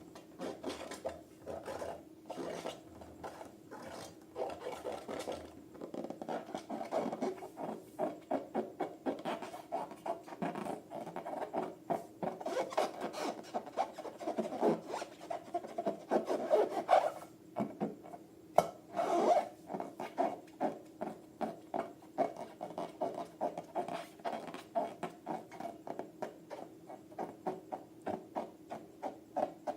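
Slime being mixed by hand: repeated rubbing and scraping strokes, settling into a steady rhythm of about two a second, over a faint steady hum.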